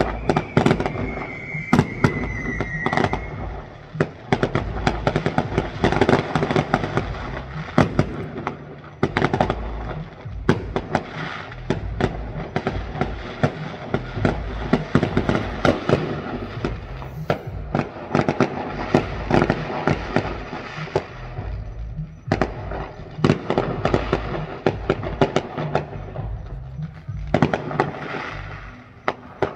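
Fireworks finale: a dense, continuous run of bangs and crackles as shells and cakes go off one after another. A high whistle glides slightly down in pitch near the start, and the bangs thin briefly a couple of times later on.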